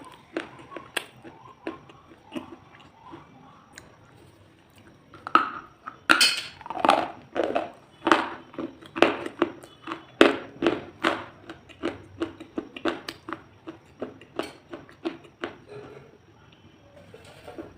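Crunchy food being bitten and chewed close to the microphone: a run of sharp, crackling crunches, sparse at first, then coming thick and fast from about five seconds in until near the end.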